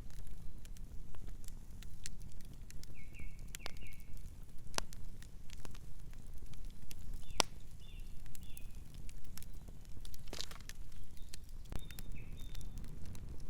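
Campfire crackling, with irregular sharp pops over a low steady rumble. Short high bird chirps come in three times.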